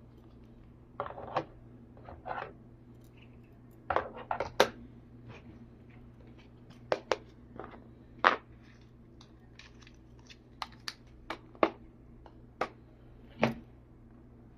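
Small plastic toy kitchen pieces being handled: about a dozen irregular clicks, taps and light clatters, some in quick clusters, over a faint steady hum.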